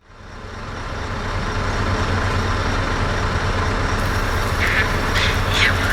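Heavy truck's diesel engine running at a steady idle, a low rumble that fades in over the first second or two. Short high squeaky sounds come in over it about a second before the end.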